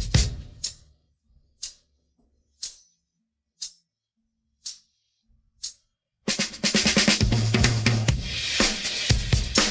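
Isolated drum kit and tambourine track, separated from a full band mix. The kit's hits die away within the first second. Then come only six light, high taps about a second apart, before the full kit with bass drum, snare and cymbals comes back in about six seconds in.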